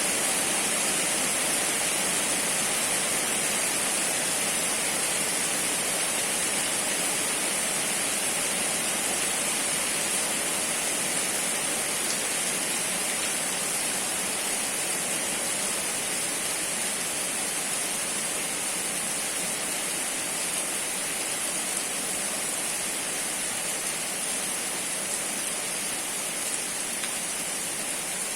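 Steady rain falling, an even hiss that grows slowly a little quieter.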